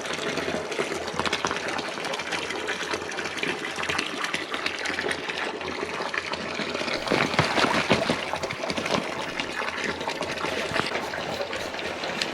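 Hot spring water gushing and splashing, louder for a couple of seconds about seven seconds in.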